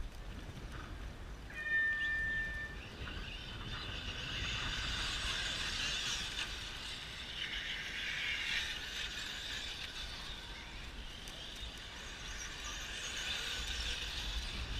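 A single electronic beep about two seconds in, then the high whine of several electric 1/10 short course trucks' brushless motors running together, swelling and fading as the pack accelerates and passes.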